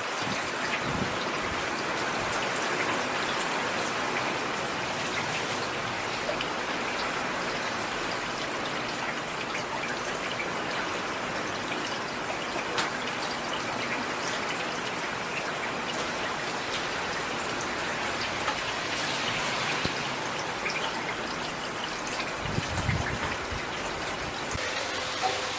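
Steady rain falling: an even hiss of rain with scattered individual drops ticking. A brief low rumble comes near the end.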